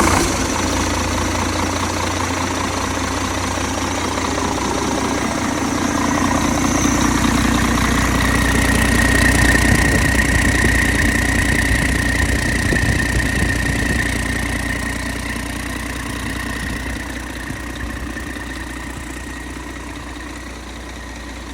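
Scania DC13 PDE inline-six diesel running on an engine test stand just after a cold start, idling steadily. Its loudness swells somewhat in the middle and then slowly settles lower toward the end.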